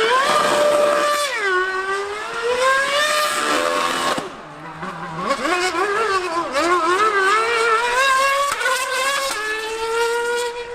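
High-revving racing engines of a Formula One car and a 1000cc superbike at full speed, pitch climbing and dropping again and again through the gear changes. The sound falls away briefly about four seconds in, then climbs again.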